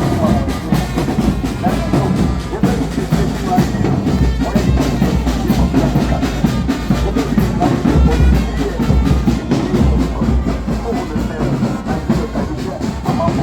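Loud drum-heavy band music with brass instruments, the drums beating continuously.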